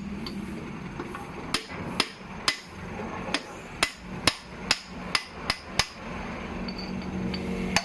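About ten sharp hammer strikes in a row, a bit faster than one every half second, starting about a second and a half in, made while a CVT is being taken apart.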